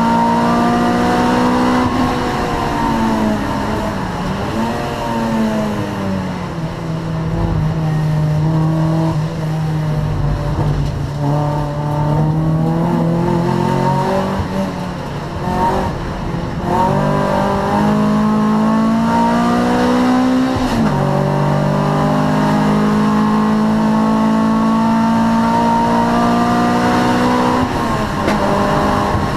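Honda Prelude 2.2 VTEC four-cylinder engine racing through the gears. The pitch climbs under acceleration and drops sharply at upshifts, once about two-thirds through and again near the end. A longer stretch at lower pitch comes before it climbs again.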